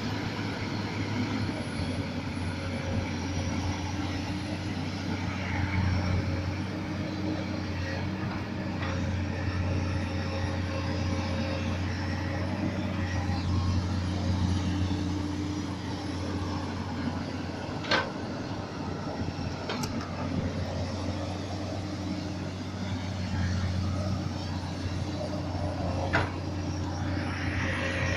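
Komatsu PC200 hydraulic excavator's diesel engine running steadily, its note swelling and easing every few seconds as it works under load. Two sharp knocks stand out, about two-thirds of the way through and again near the end.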